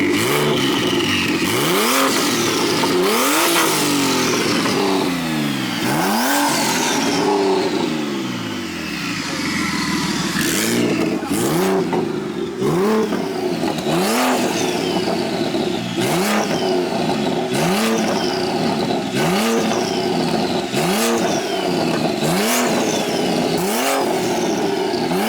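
A BMW 335i's single-turbo inline-six engine is being revved over and over, the pitch climbing and falling about once a second in the second half. It is running on freshly swapped-in injectors to test whether a misfire on cylinder 1 is cured.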